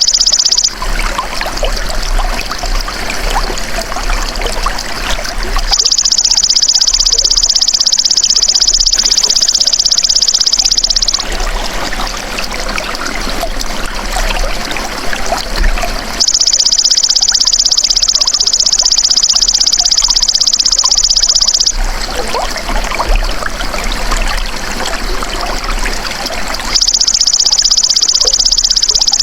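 Golden grasshopper (belalang emas) calling in a high, fast, buzzing trill. It switches on and off in blocks of about five and a half seconds, and the buzz is the loudest sound. Between the blocks, trickling running water fills the gaps for about five seconds at a time, coming in three times.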